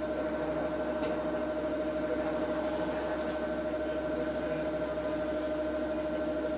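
Steady whine from a bus's hydraulic cooling fan, the weird noise the bus is making, heard from inside the passenger cabin over the engine rumble, with a few faint rattles.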